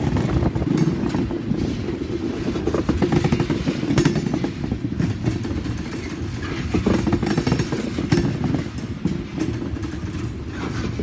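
Long freight train rolling past: a steady low rumble with irregular clatter from the wheels and cars.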